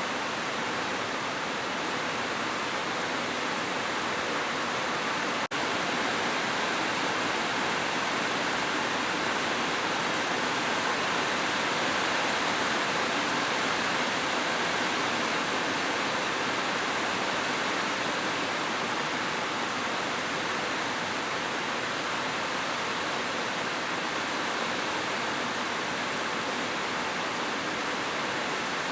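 Heavy rain falling steadily, a dense, even hiss, with a momentary dropout about five seconds in.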